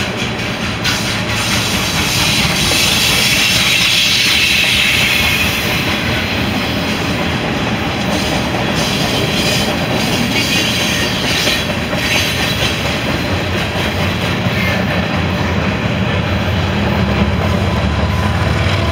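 A train passing on the rails, loud and steady, its wheels rumbling and clacking over the track.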